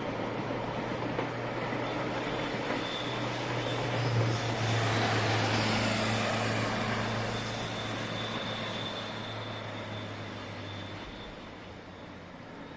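JR Freight EF67 electric banking locomotive pushing at the rear of a freight train as it passes and draws away, a steady low hum with rail noise. The sound swells about halfway through and then fades, the hum dying out near the end.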